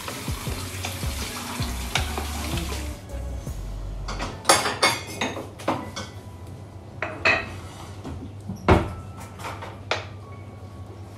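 Water running from a tap, shut off about three seconds in, then dishes and cutlery clinking and knocking in a series of sharp strikes.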